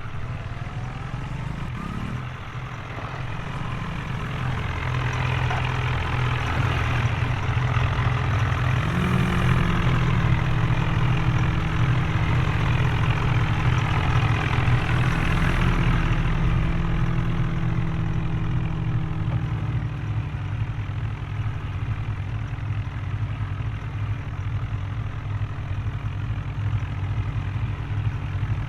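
Heavy tractor engine running hard, steady and loud, its pitch stepping up about nine seconds in and then holding high.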